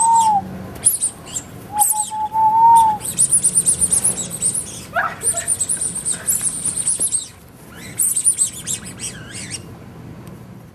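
Small birds chirping, with fast high-pitched trills through the middle and scattered chirps near the end. Two short steady whistled notes come in the first three seconds.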